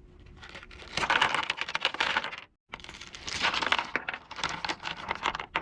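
Close handling of an unboxing package: dense, irregular crinkling and clicking, in two stretches with a brief break about two and a half seconds in.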